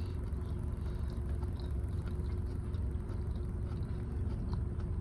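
Steady low hum of a car engine idling, heard from inside the cabin, with faint small ticks of chewing.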